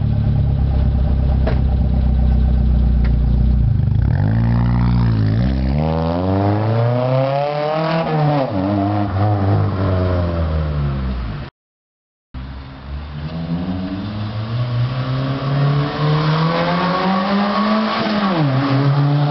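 Suzuki Swift 1.3 8V four-cylinder engine heard through a 2-inch exhaust with a Blackflame muffler. It starts at a steady idle, then revs rise and fall. After a brief cut the revs climb slowly for several seconds and drop sharply near the end.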